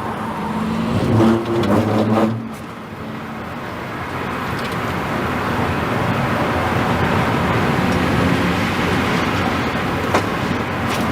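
Car driving at speed: a rushing tyre and wind noise that slowly builds. In the first two seconds there is a low pitched hum that steps up once and then cuts off, and there is one sharp tick near the end.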